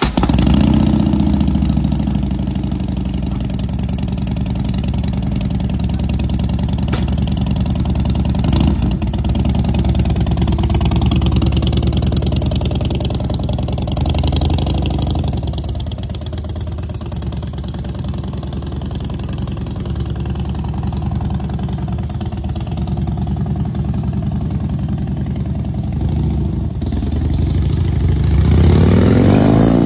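2010 Harley-Davidson Dyna Fat Bob's 96 cubic inch Twin Cam V-twin running steadily, then revved up near the end.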